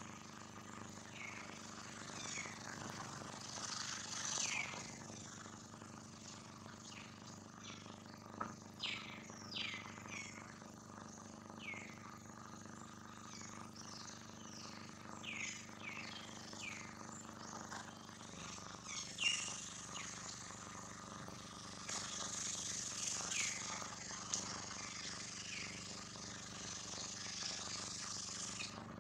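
Birds chirping outdoors: short, quick downward-sliding chirps scattered irregularly, over a faint steady hum.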